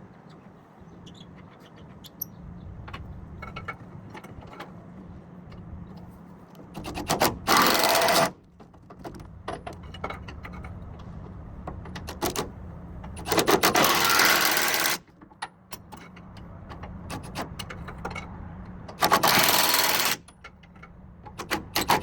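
Power tool running in short bursts of about a second each, four times, with small clicks and knocks of metal between them and a steady low hum underneath.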